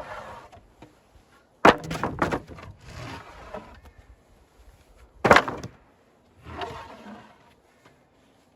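Wooden boards knocking and clattering as they are moved by hand. There are two sharp knocks close together about two seconds in and another about five seconds in, with scraping and rustling between.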